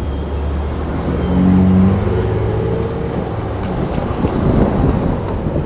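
A vehicle engine running with a low rumble, its hum rising in pitch as it speeds up between about one and three seconds in.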